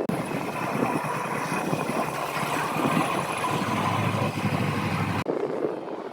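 A vehicle engine idling steadily amid outdoor noise, cutting off abruptly about five seconds in.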